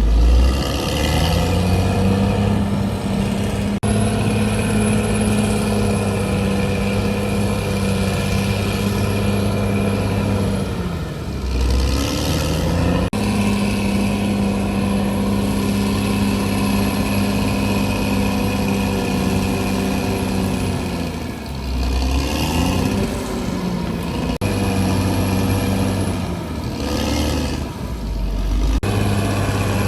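CAT D6R XL bulldozer's diesel engine running hard at a steady high pitch. Its revs dip and recover briefly three or four times, about 11, 21 and 27 seconds in.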